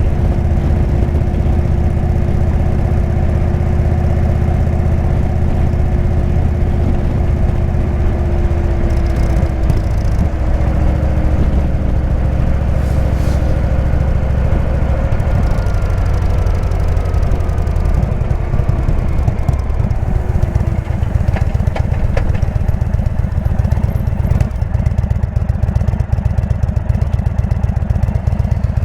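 Indian V-twin motorcycle engine with a Jekill & Hyde exhaust, running steadily while riding. The exhaust beat becomes more distinctly pulsing near the end.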